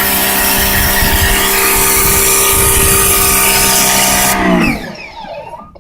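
AR Blue Clean AR390SS electric pressure washer running, its motor humming steadily while the rotary tip blasts water onto concrete. Near the end the spray cuts off suddenly, the trigger is released, and the motor winds down in pitch and stops.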